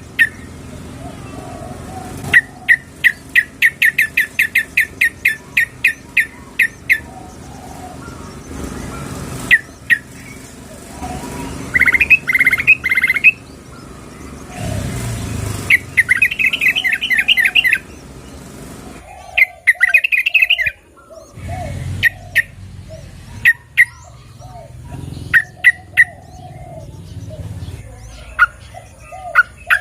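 Yellow-vented bulbul (trucukan) calls, given as a female calling a male: runs of short, sharp, high chirps about three a second, broken by brief pauses. Quieter, lower chirps from other birds run underneath.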